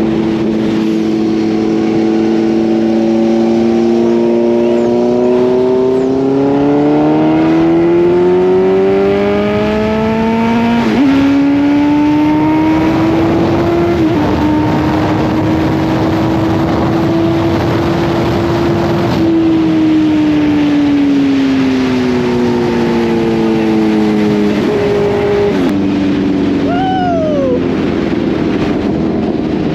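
Kawasaki Z900's inline-four engine on the move, rising in pitch as it accelerates, with gear changes about eleven and fourteen seconds in. It holds steady, then falls away as the bike slows, with a downshift near the end and a short falling tone just after it, over steady wind noise.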